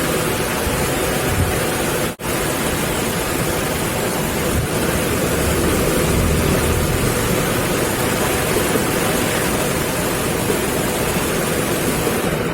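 Homemade small engine, built from a refrigerator compressor, running fast and loud: a dense, steady rushing noise with no clear pitch, which cuts out for an instant about two seconds in.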